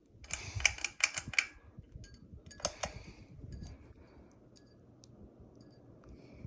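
Harbor Breeze Centreville 52-inch ceiling fan running on its high speed, a faint steady hum and rush of air. A run of sharp clicks and rattles stands out in the first three seconds.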